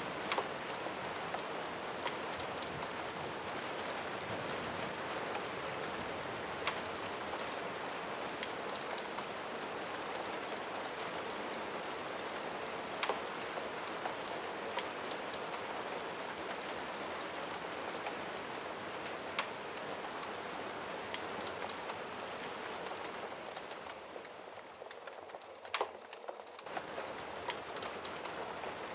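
Steady rain falling on a surface, with occasional sharp ticks of single drops. Near the end the rain briefly thins and drops quieter, then comes back suddenly at full strength.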